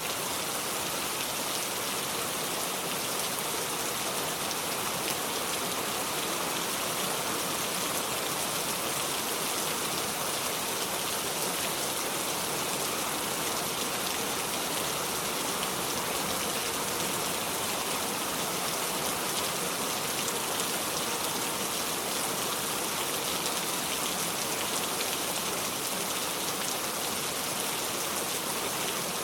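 Steady rain falling on a surface, a continuous hiss with fine drop ticks and no thunder.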